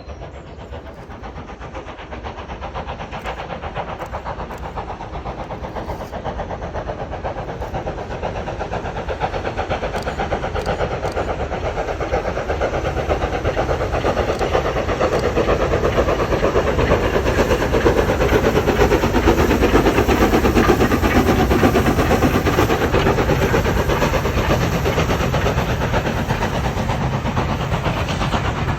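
Train hauled by locomotive No. 85 running along the line, growing steadily louder as it approaches, loudest about two-thirds of the way through, then easing a little.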